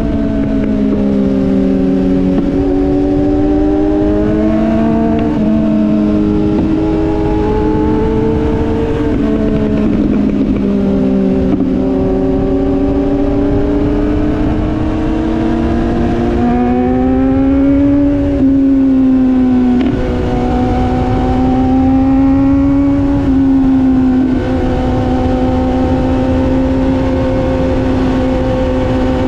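Motorcycle engine running under way, its pitch rising and dropping several times with throttle and gear changes, over a constant low rush of wind and road noise.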